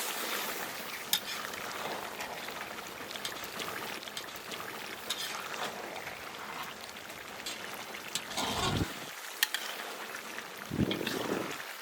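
Rain falling steadily, with scattered small drips and a couple of dull knocks about eight and a half and eleven seconds in.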